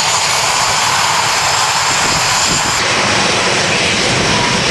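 Jet engines of Red Arrows BAE Hawk T1 aircraft running loud and steady, a dense rushing noise with a high whine that stops a little under three seconds in.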